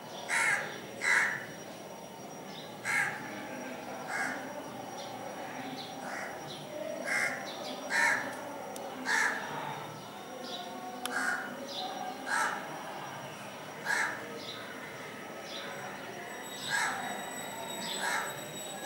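A bird outside giving short, harsh calls, about a dozen of them one to two seconds apart, some close together in pairs, over a low steady background murmur. A thin steady high tone comes in near the end.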